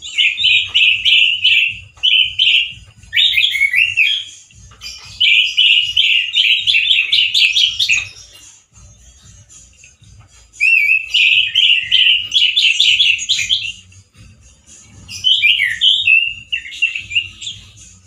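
Male orange-headed thrush singing loud, harsh phrases of rapid, warbling notes. There are five bursts of a few seconds each, with short pauses between them.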